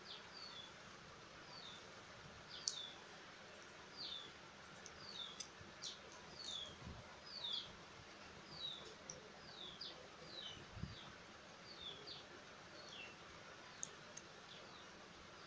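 A small bird calling repeatedly in short, high, falling chirps, about one or two a second, over faint outdoor background noise. One sharp click sounds a few seconds in.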